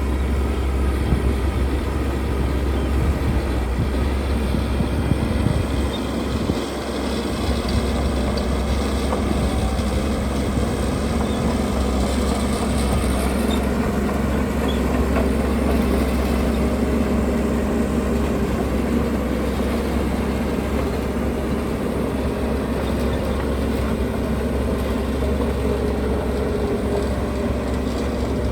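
Heavy diesel construction machinery running steadily, a low engine rumble with a short dip about six seconds in.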